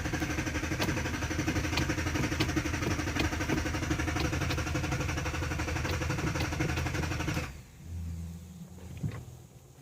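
2013 Dodge Durango R/T's 5.7-litre Hemi V8 running just after a push-button start, then stalling abruptly about seven and a half seconds in. A brief low hum and a click follow. The dying is the truck's fault, which the owner traced to a bad fuel pump relay.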